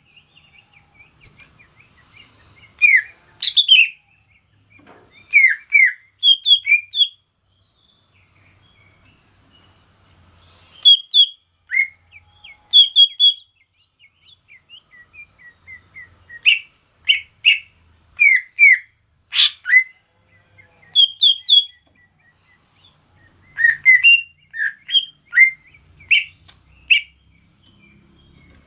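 Cucak ijo (green leafbird) singing: short phrases of sharp, clear whistled notes, a few at a time with pauses of a second or two between, over a steady high hiss.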